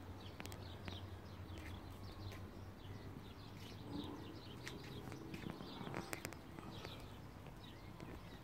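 Small birds chirping: many short, high chirps dropping in pitch, scattered throughout, with a few faint clicks.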